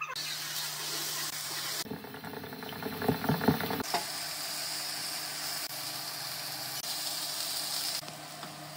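Food frying with a steady sizzle. About two seconds in, eggs are whisked with a fork in a glass bowl, a quick rhythmic clicking for about two seconds.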